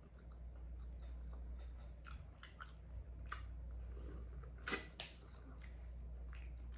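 Close-miked chewing and biting of shrimp boil: a string of soft clicks scattered over a few seconds, the loudest about five seconds in.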